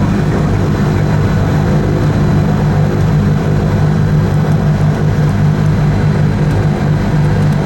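Steady drone of a 1980 Cessna 340A's twin turbocharged Continental TSIO-520 engines and propellers running at an even speed.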